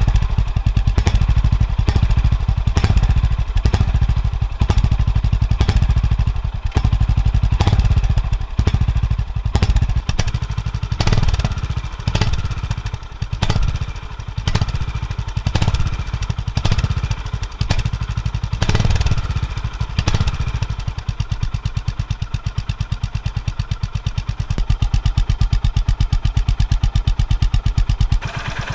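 Honda GB350S's air-cooled single-cylinder engine running through its stock muffler: a steady train of exhaust pulses that grows louder and softer by turns as the throttle is opened and eased.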